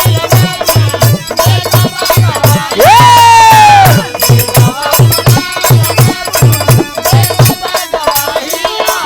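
Bhojpuri birha folk music interlude: steady hand-drum beats with rattling percussion and a melody. About three seconds in, a loud held note slides up and then falls slowly for about a second.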